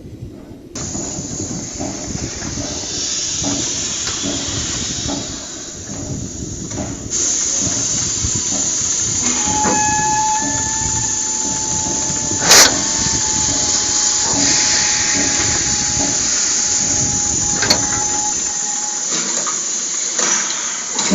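Steam locomotive working with loud steam hiss. A steady whistle tone is held for about ten seconds in the second half, and there is a single sharp click around the middle.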